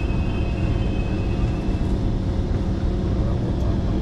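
Steady low rumble of a metro train heard from on board, with a thin high whine that fades out about halfway through.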